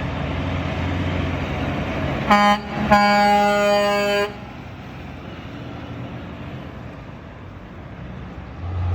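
Truck air horn sounding a short toot, then a longer blast of about a second and a half, over the rumble of a passing truck.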